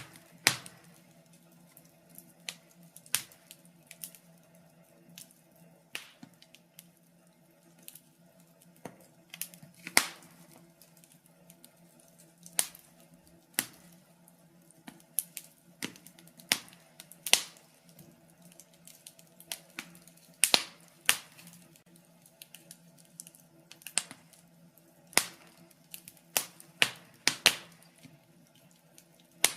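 Wood fire crackling: irregular sharp pops and snaps, sometimes several close together, over a faint low steady hum.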